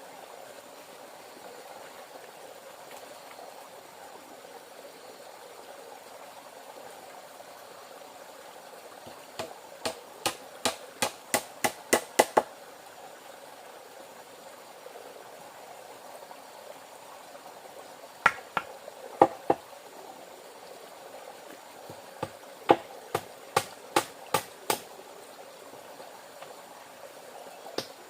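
Runs of quick, sharp knocks, several a second, like blows of a hammer or hatchet on wood, in bursts of three to ten strikes. Under them a steady soft rush of running water.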